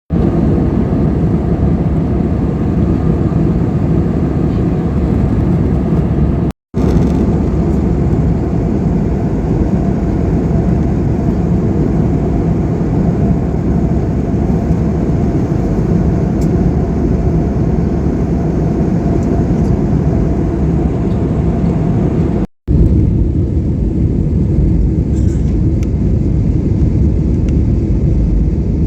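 Steady low rumble of a passenger plane's engines and airflow heard inside the cabin, cut off abruptly twice.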